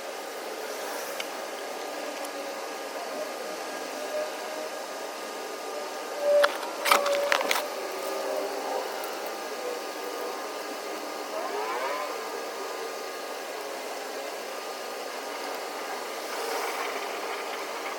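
A steady mechanical hum with a few sharp clicks about six to seven seconds in.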